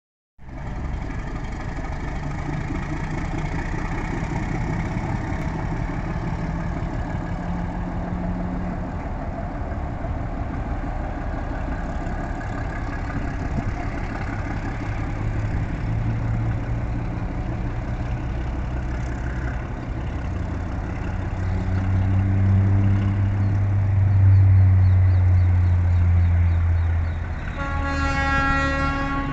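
Diesel-hauled passenger train pulling out and rolling away: a steady rumble of the train on the rails, with a low engine drone swelling louder about two-thirds of the way through. Near the end, a short horn blast of about a second and a half.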